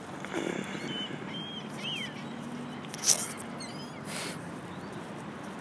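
Quiet outdoor background with a few short, high bird chirps, then two brief rustling bursts.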